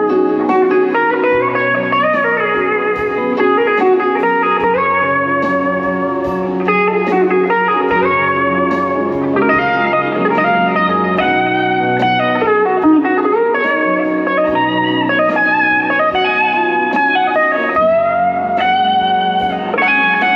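Guitars playing an instrumental break of a slow blues song, a lead line gliding up and down between notes over steady bass notes.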